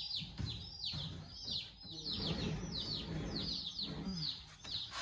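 Day-old meat-bird chicks peeping: many short, high cheeps that fall in pitch, overlapping several times a second, with low rustling as they move about.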